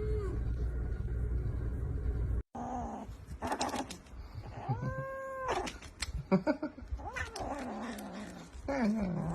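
A low steady rumble, then after a sudden cut a cat yowling in a series of drawn-out cries, one held steady for about half a second, with a few sharp clicks between them.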